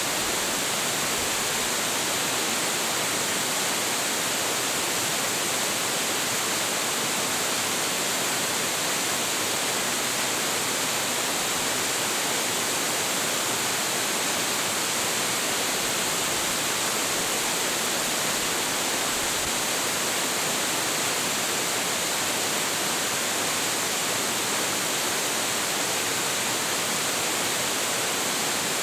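Waterfall: a large, high-volume falls, its water crashing onto the pool below in a steady, unbroken rush.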